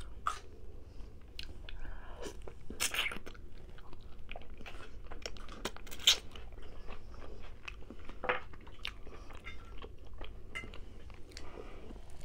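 Close-up eating of rotisserie chicken wing: biting and chewing with wet mouth sounds and irregular sharp crunches, as the wing is torn apart by hand. The loudest crunch comes about six seconds in.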